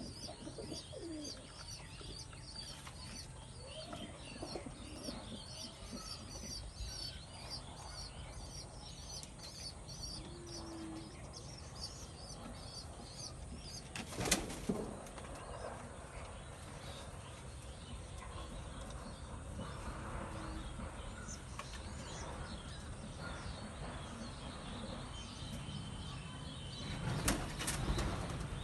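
Pigeons cooing, with sudden bursts of wing flapping about halfway through and again near the end. Small birds chirp rapidly in the background through the first half.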